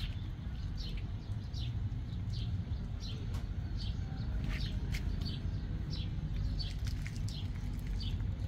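A small bird chirping repeatedly: short, high, falling chirps about once or twice a second, over a steady low rumble.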